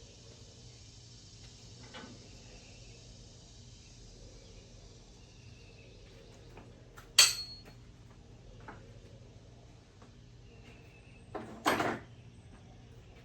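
Metal objects knocking in a workshop: one sharp ringing clank about seven seconds in, and a longer clattering knock near the end, over a low steady hum.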